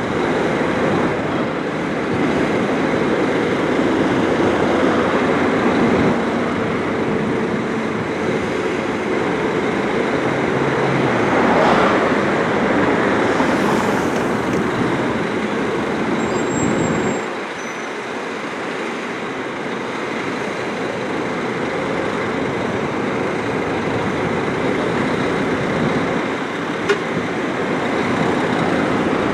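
Engine of a Scania-chassis Busscar Busstar DD double-decker coach running amid road traffic noise. The low rumble swells about two-fifths of the way in and drops off a little past halfway.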